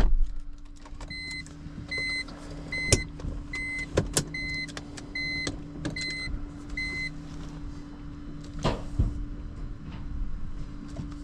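Tow truck's reverse alarm beeping at an even pace, a little over one beep a second, over the truck's steady running hum; the beeping stops about 7 seconds in. A few sharp clanks or knocks cut in along the way.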